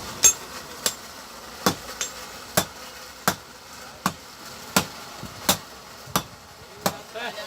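Blacksmith's hammer striking metal in a steady forging rhythm: about ten sharp blows, a little over one a second, each with a short metallic ring.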